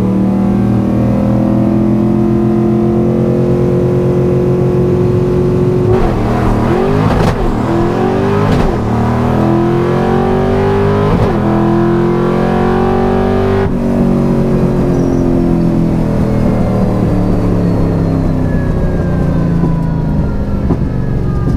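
Ford 5.0 V8 in a manual-transmission Mustang holding steady revs, then launching about six seconds in and revving up through several quick gear shifts on a drag pass. About fourteen seconds in it lifts off and the engine note winds down.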